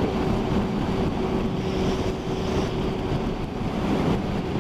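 Yamaha Thundercat motorcycle's inline-four engine running at a steady cruising speed, a steady hum under a constant rush of wind and wet-road spray.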